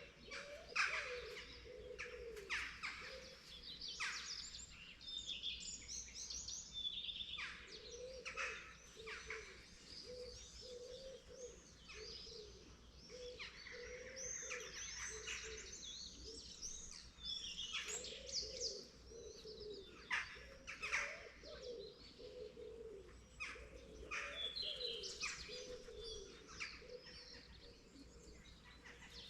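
Morning chorus of several songbirds chirping and twittering, with a dove cooing in low, repeated phrases underneath.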